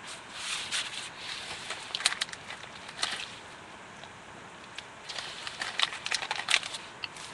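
Footsteps crunching on a gravelly mountain trail, in two irregular bursts with a short pause between them.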